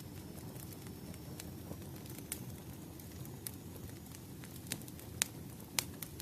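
Firewood burning, crackling: irregular sharp pops and snaps over a steady low rumble of flames, with the biggest pops in the second half.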